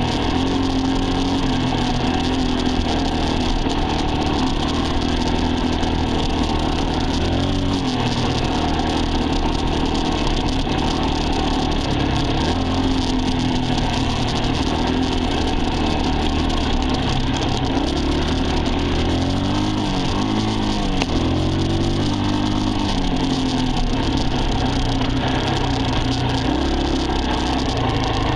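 Dirt bike engine running under changing throttle, its pitch stepping around eight seconds in and rising and falling between about 18 and 22 seconds, over a steady rushing hiss.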